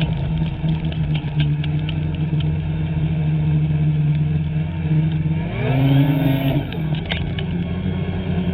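Snowmobile's two-stroke engine running steadily, then revving up and dropping back about two-thirds of the way through. A few sharp clicks and clatter come over it.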